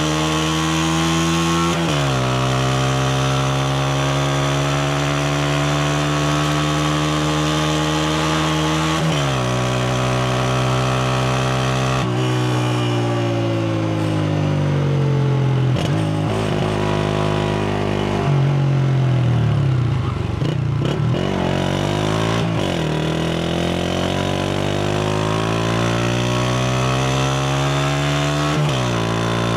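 Honda CG125's single-cylinder four-stroke engine under way. Its pitch climbs as the bike accelerates and drops sharply at gear changes about two seconds and nine seconds in and again near the end. Around two-thirds of the way through it eases off and then picks up again.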